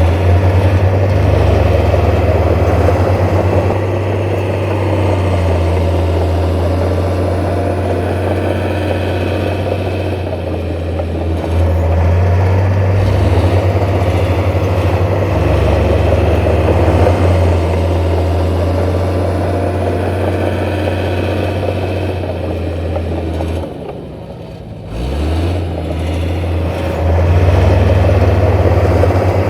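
Heavy diesel engine of construction machinery running steadily, shifting up and down in level in steps. Near the end it drops away for about a second, then picks up again.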